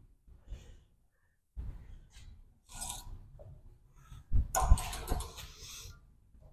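Irregular handling noises: scattered knocks and scraping, rustling bursts, loudest a little past four seconds in.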